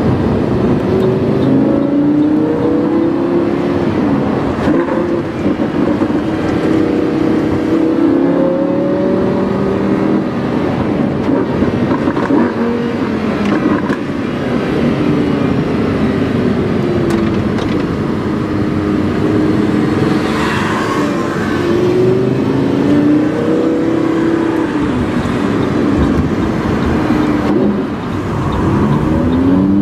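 Lamborghini Huracán's V10 engine breathing through a PowerCraft aftermarket exhaust, recorded onboard while driving. The engine note rises and falls again and again as the car accelerates and eases off.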